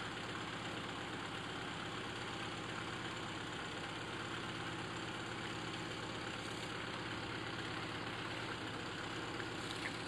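BMW 2002's M10 inline-four engine idling steadily.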